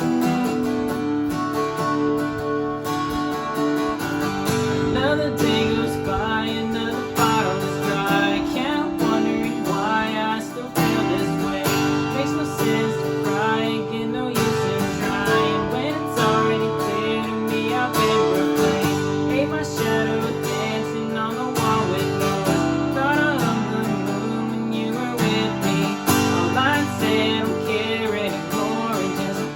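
Country song played on a strummed acoustic guitar, with a melody line gliding over the chords.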